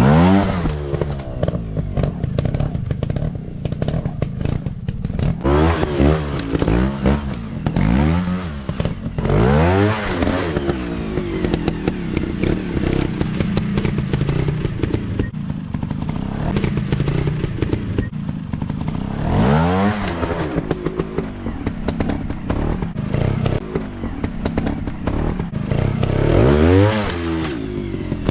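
Off-road dirt bike engines revving hard in repeated throttle bursts, the pitch rising and falling every few seconds, with clattering and knocks over rough ground.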